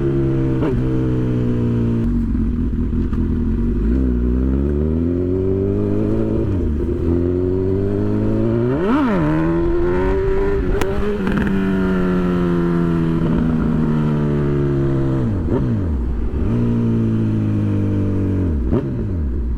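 Honda CB1000R's inline-four engine being ridden, its pitch rising and falling repeatedly as the throttle is opened and closed through the gears.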